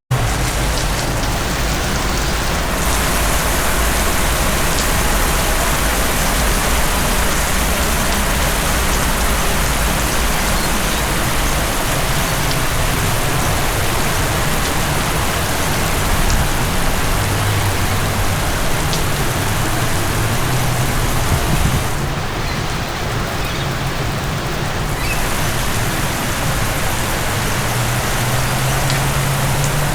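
Heavy rain falling steadily in a thunderstorm: a dense, even hiss of rain on surfaces.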